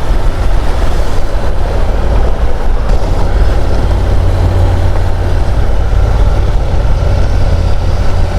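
Honda NC750 DCT parallel-twin motorcycle riding along at steady speed, heard as a loud, even rumble of engine and wind rush on the helmet microphone.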